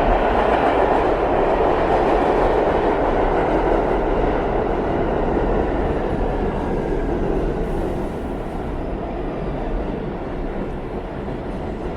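New York City subway train running, a steady loud rumble of wheels on track that eases off somewhat in the second half, with a faint falling whine near the middle.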